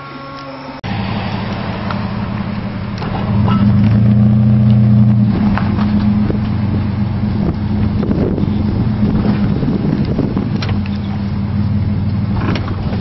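Car engine running steadily while driving, a low hum that starts abruptly about a second in, with a few light knocks.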